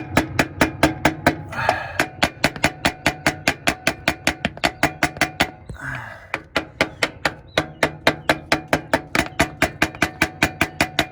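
Rapid, evenly spaced metal taps, about four or five a second, on the starter motor of a 2006 Ford E-250 van, the old trick of tapping a starter that intermittently won't crank.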